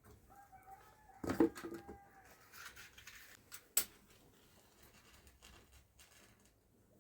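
A drawn-out animal call, one wavering note held for about a second and a half. A loud knock comes about one and a half seconds in, and a sharp click near four seconds.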